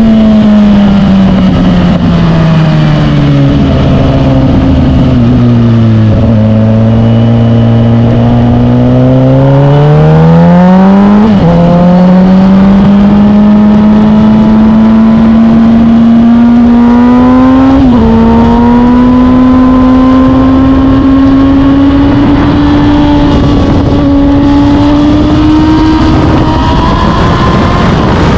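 Suzuki GSX-R1000 K8 inline-four engine on the move. The revs sink slowly for several seconds, climb again, then drop suddenly twice as it shifts up. The revs then rise gently, over a steady rushing noise.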